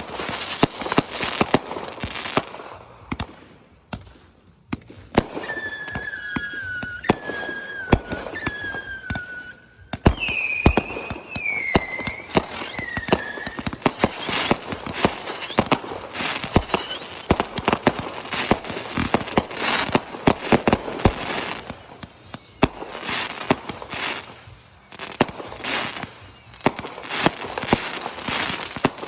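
Fireworks display: rapid overlapping bangs and crackling from aerial shells, with a brief lull a few seconds in. After that, repeated falling whistles sound among the bursts.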